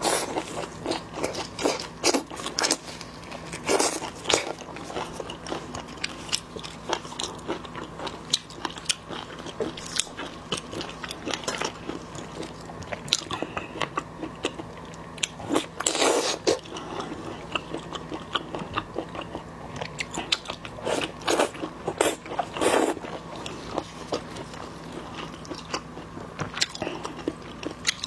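Close-miked mouth sounds of eating marinated shrimp and sea cucumber: a steady run of wet chewing and smacking with short crunchy bites. Louder bites come about four seconds in, around sixteen seconds, and twice more just past twenty seconds.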